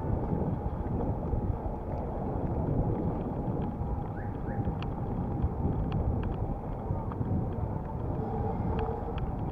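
Wind buffeting the microphone over road rumble while riding an electric bicycle, with scattered faint ticks and rattles.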